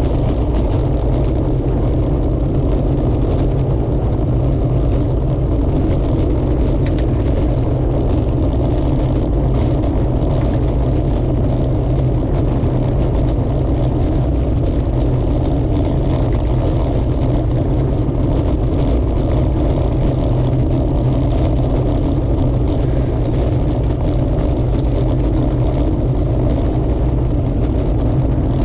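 Steady, loud low rumble of wind and road noise buffeting a camera microphone on a moving bicycle.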